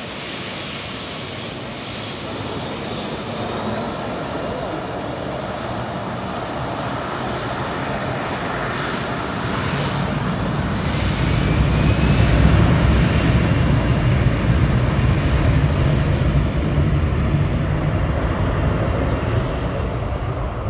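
Airliner engines roaring close by on the runway. The roar builds steadily, a deep rumble joins about halfway through, it is loudest a little after that, and it stays loud to the end.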